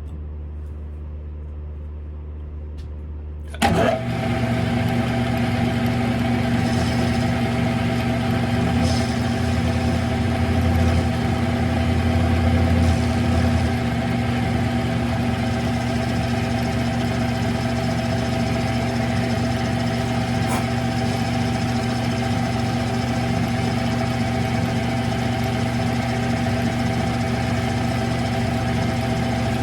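Smithy CB-1220XL 3-in-1 lathe switched on about four seconds in, the level jumping suddenly, then running steadily with a hum and a whine of several fixed tones from its motor and gear drive. A low hum sounds before it starts.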